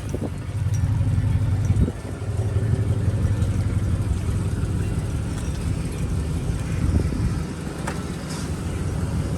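Pickup truck's engine running with a steady low rumble, with a short knock about two seconds in.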